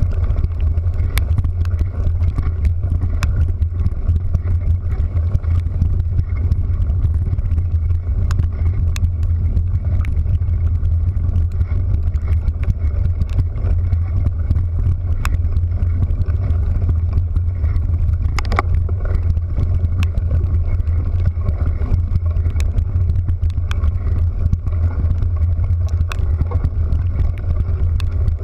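A vehicle running steadily, with a heavy, unbroken low rumble and scattered sharp clicks.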